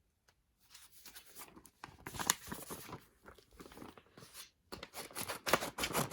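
Packaging around a photocard being torn open and handled: irregular crinkling and tearing rustles, loudest about two seconds in and again near the end.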